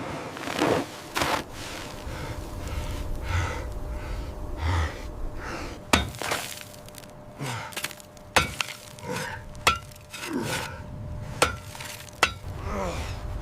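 A string of sharp cracks and knocks, several seconds apart, with short falling creaks between them.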